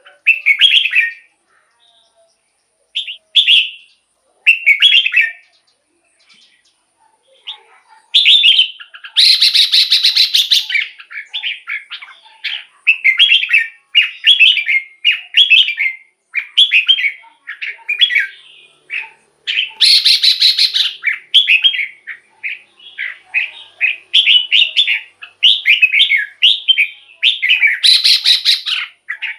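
Red-whiskered bulbul singing: a few short, spaced whistled phrases, then from about eight seconds in a near-continuous run of quick warbled phrases. Three times the song is broken by a harsher, rasping burst lasting a second or two.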